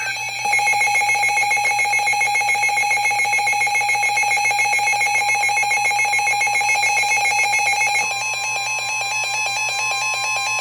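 NOAA Weather Radio warning alert: a rapidly pulsing electronic alarm over steady tones. About eight seconds in it gives way to a single steady tone near 1 kHz, the 1050 Hz warning alarm tone that comes before a severe thunderstorm warning is read out.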